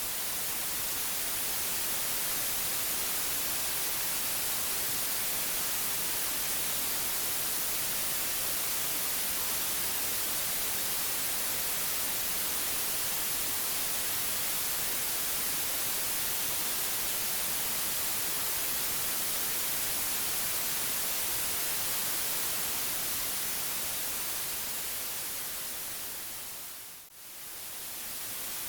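Steady white noise: an even hiss that is strongest in the high frequencies. It dips sharply and briefly near the end, then returns at the same level.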